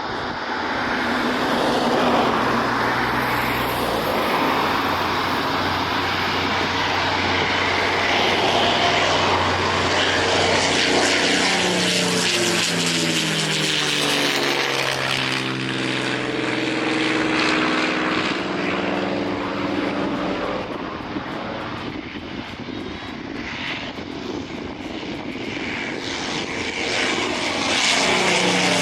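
Two P-51 Mustangs' Merlin V-12 engines at takeoff power in a stream takeoff, with propeller noise. Around the middle the engine note falls in pitch as an aircraft goes past, and near the end the sound grows louder again.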